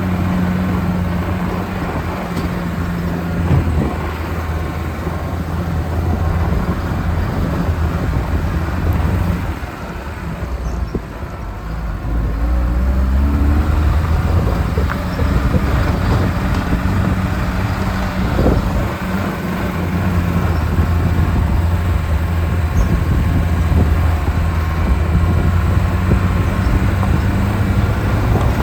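Lada Niva engine running under load on a rough off-road track, its note easing off about ten seconds in, then revving up again and running steadily.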